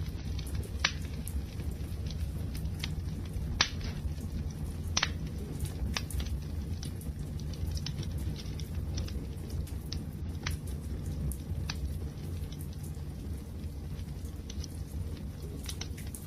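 Wood fire crackling: a steady low rumble of burning with scattered sharp pops and snaps. Two louder pops come about a second in and about three and a half seconds in.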